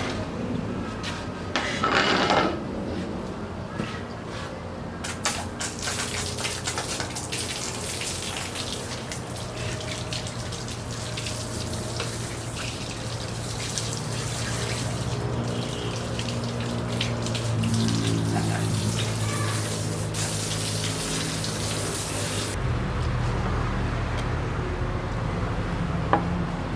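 Liquid running and splashing over a steady low hum. The splashing cuts off about two-thirds of the way through, and the hum goes on.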